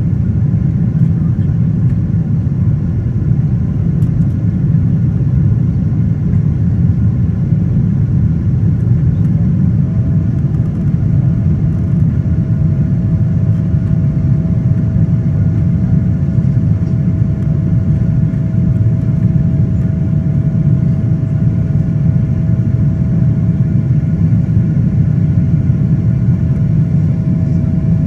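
Boeing 777-200ER cabin noise: the steady, loud rumble of the jet engines and airflow. A faint steady engine tone joins in about ten seconds in.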